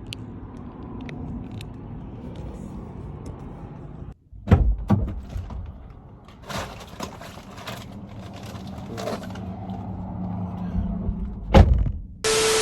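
Inside a car: a steady low engine and road rumble that cuts off abruptly about four seconds in. It is followed by several loud knocks and thumps, and a low engine hum later on.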